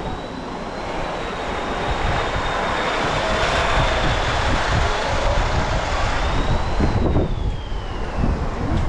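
Engine noise of something passing by, swelling toward the middle, with a high whine that falls in pitch near the end as it goes past.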